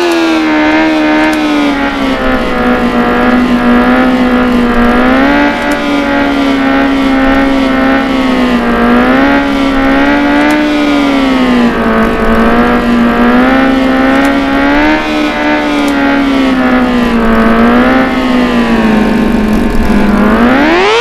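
Motorcycle engine held at high revs, its pitch wavering up and down, then rising sharply near the end.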